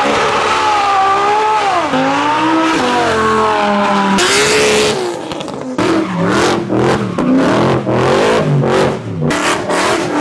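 Loud supercar engines revving and accelerating. A high engine note falls in pitch over the first two seconds, a short hiss comes about four seconds in, and the second half is a run of quick revs rising and dropping, broken by many short gaps.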